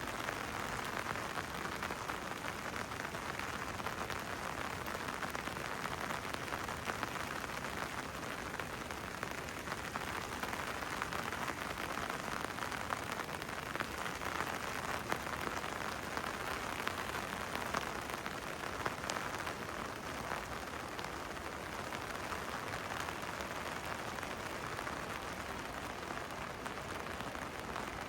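Steady rainfall, an even hiss of falling rain, with a few sharper drop clicks about two-thirds of the way through.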